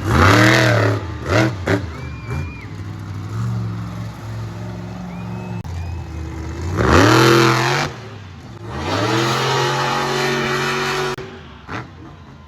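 Monster truck engine revving hard in repeated bursts, the pitch sweeping up and falling back each time; the strongest rev comes about seven seconds in, and a long held rev cuts off near the end.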